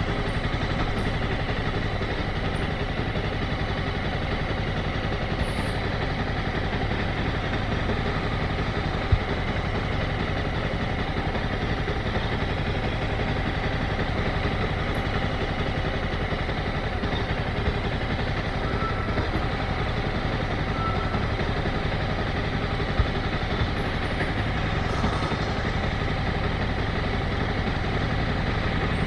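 Motorcycle engine running steadily at low revs, with a few brief clicks.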